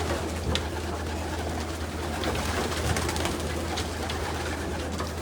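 Hundreds of racing pigeons cooing together in a loft, a dense continuous murmur broken by scattered short sharp clicks, over a steady low hum.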